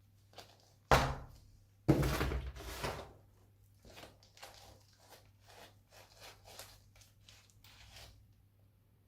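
Two sharp thumps about a second apart, the second trailing into a second of rustling, then faint scattered ticks and rustles: a plant pot being set down or knocked on a table, with bark and pebble potting mix shifting inside it as it is filled.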